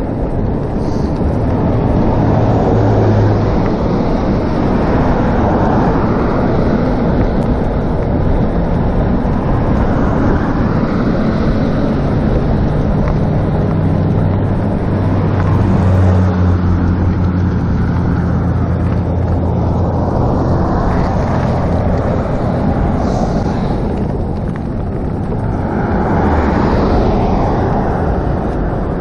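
Steady rush of wind over the microphone and road noise while riding an electric bicycle, with a steady low hum joining in through the middle stretch.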